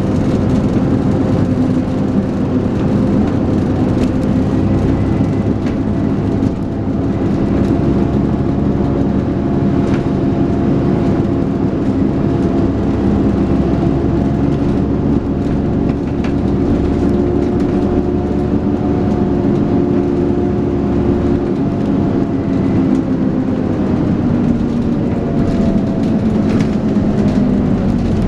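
Dennis Trident 2 double-decker bus engine pulling hard under load, a loud steady drone whose pitch creeps slowly upward, then drops away near the end as the revs fall.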